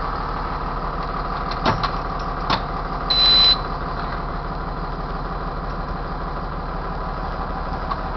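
International T444E V8 turbo-diesel in a Blue Bird school bus idling steadily. Two short clicks come early, and a brief high-pitched beep sounds about three seconds in.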